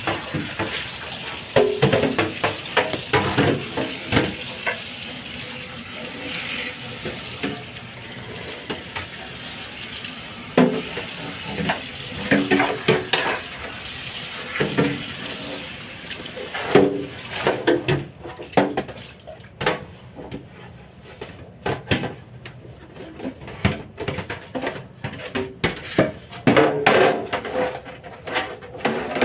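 A tap running into a sink while refrigerator parts are washed, knocking and clattering against the sink and each other. The water shuts off about two-thirds of the way through, leaving only the clatter of the pieces being handled.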